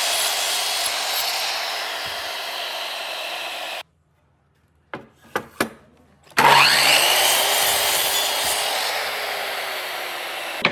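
A power tool cutting into wood, in two long stretches, each starting loud with a rising whine as the motor comes up to speed. Between them the sound cuts off suddenly, followed by a few short knocks.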